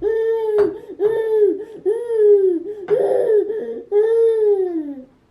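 A toddler's voice: a string of drawn-out, high sing-song cries, each arching up and then down in pitch, the last one the longest and falling away.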